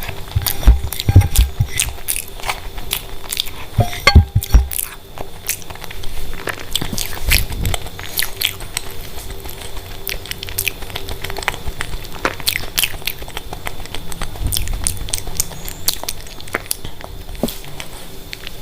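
Close-up chewing and mouth sounds of a person eating, with many small sharp clicks and a few heavier low bumps about a second in and about four seconds in, over a faint steady hum.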